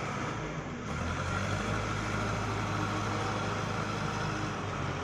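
Diesel engine of an old JCB backhoe loader running steadily, getting a little stronger about a second in.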